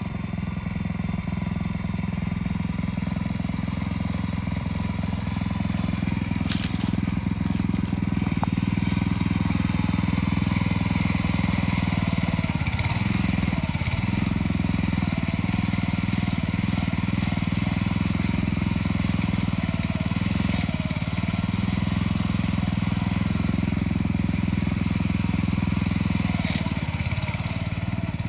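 Harbor Freight Predator single-cylinder engine on a Troy-Bilt Pony rototiller running steadily and loud, with brief sags in pitch about halfway through and again near the end as it takes load.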